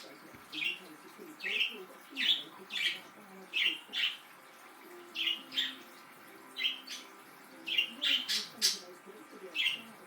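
Pet budgerigars calling: short, sharp chirps repeated about once or twice a second over a softer, continuous warbling chatter.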